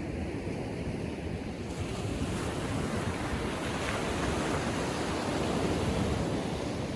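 Gentle ocean surf: small waves breaking and washing up the beach in a steady rush that brightens about two seconds in and swells a little later on.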